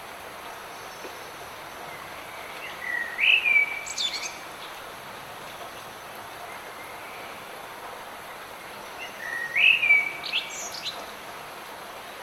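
A songbird sings the same short phrase twice, about six seconds apart: a rising note levelling off into a held note, followed by quick high notes. Under it runs the steady hiss of light rain.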